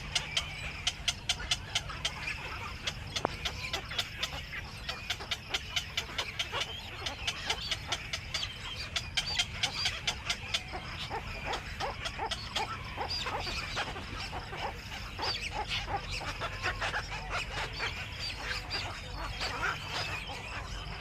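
Black-crowned night herons calling at the nest: a fast run of sharp dry clicks, several a second, through about the first half, giving way to rougher honking calls.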